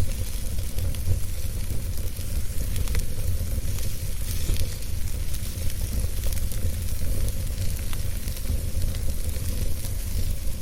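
Wood fire burning, with a steady low rumble and hiss and scattered crackles and pops from the burning wood.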